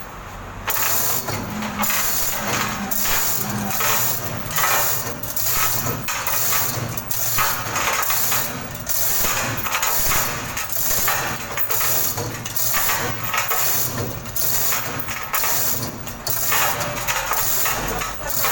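An engine running steadily, with repeated short clattering noises about once or twice a second.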